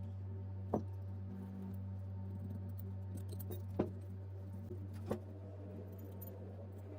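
Three sharp metallic clicks, as small metal parts are handled and set down, over a steady low hum.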